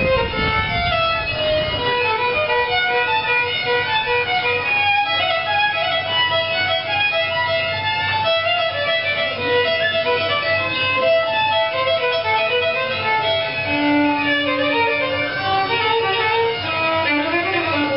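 Fiddle playing a folk tune live, over a steady low drone.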